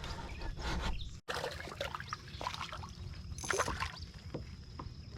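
Small water splashes, drips and light knocks on a kayak on calm water, with a steady high insect drone coming in past the middle. The sound drops out briefly about a second in.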